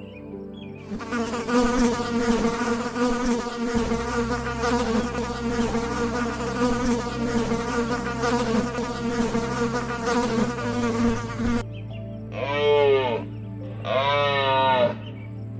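Insect buzzing, steady and dense, for about eleven seconds, then stopping; two short animal calls follow near the end.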